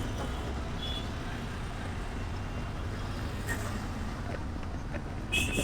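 Road traffic heard from a moving motorbike: a steady low engine and road rumble, with a short vehicle horn honk near the end and a fainter beep about a second in.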